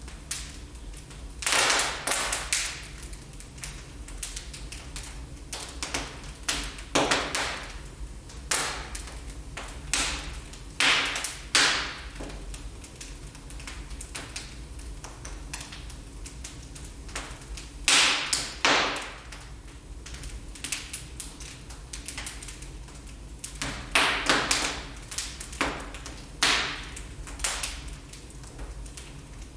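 Wood fire burning in a fireplace, crackling and popping irregularly over a low steady rumble of the flames, with several loud clusters of pops.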